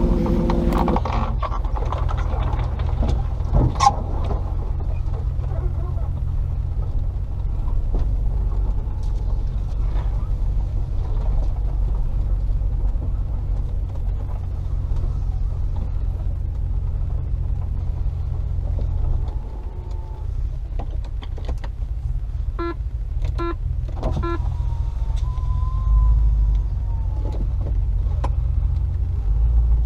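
Range Rover P38's 4.0 V8 driving along, a steady low rumble of engine and running gear that eases briefly about two-thirds of the way through. A few short clicks and knocks come a little later.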